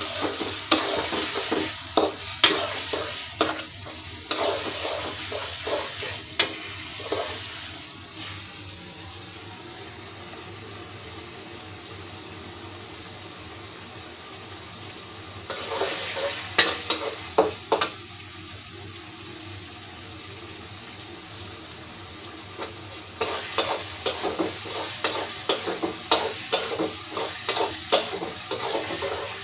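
Spice paste sizzling in hot oil in a pan while a spatula stirs and scrapes it in quick strokes, in three spells: at the start, about halfway, and through the last six seconds, with a steady sizzle between. The masala is being fried down until the oil separates.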